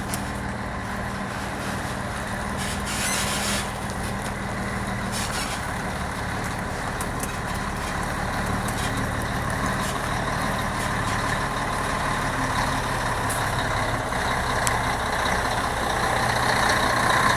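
Scania 113 truck's diesel engine running steadily and growing gradually louder toward the end, with short hisses of air from the air brakes about three and five seconds in.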